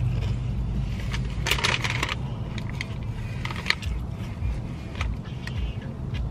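Eating sounds close to the microphone: a sandwich being chewed, with scattered mouth and lip clicks and a short crunchy crackle about one and a half seconds in.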